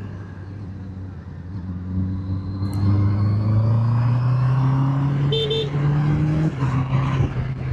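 Motorcycle engine pulling steadily, its note climbing slowly as the bike gains speed, then dropping as the throttle eases about six and a half seconds in. A short horn beep sounds about five seconds in.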